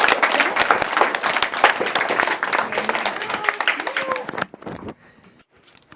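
A small group of people clapping fast and cheering, which cuts off suddenly about four and a half seconds in.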